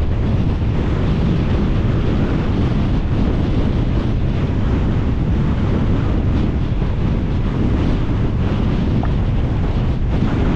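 Strong wind buffeting the camera microphone: a steady, loud rumble of wind noise.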